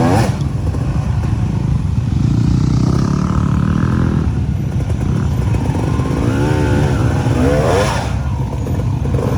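Motorcycle engine running steadily while riding, with a dense low rumble and road or wind noise; a few wavering pitched sounds come in about two-thirds of the way through.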